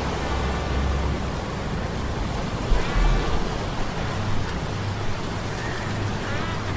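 Low mechanical hum of metal gears under a steady rush of sea-storm noise, rain and surf. Twice there is a faint, brief higher whine that bends in pitch.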